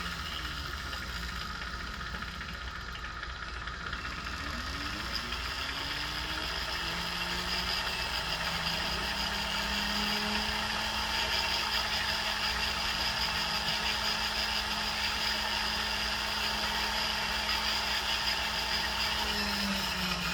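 Steady hiss of a jeweler's torch, with a small motor whose pitch rises and falls several times, holds steady for about ten seconds, then drops near the end.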